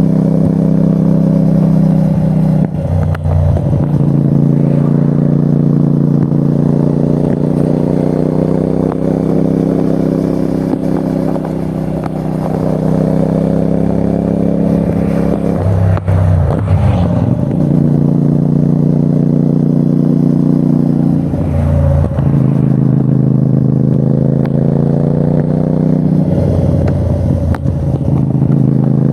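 Parallel-twin engine of a 2024 CFMOTO 450NK motorcycle under way, holding a steady note. The note dips briefly four times, then rises near the end.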